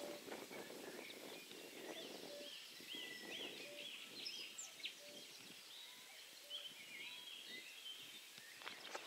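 Several birds singing and calling: a run of quick, arched chirps around the middle, and a short lower note repeating every second or so, over a faint steady outdoor background noise.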